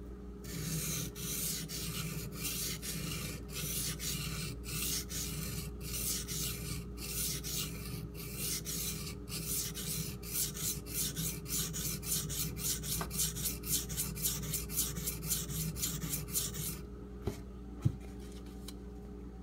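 An AUS-8A steel tanto knife blade stroked back and forth on a Shapton Pro waterstone, an even gritty rasping at about two strokes a second. The strokes stop about three seconds before the end, followed by a single sharp knock.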